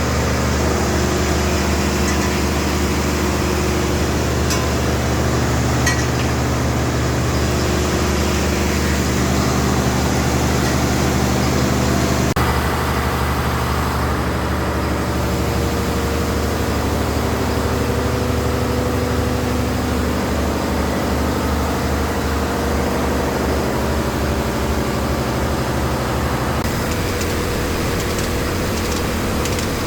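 An engine running steadily with a low, even throb. Its pitch changes slightly about twelve seconds in and again near the end.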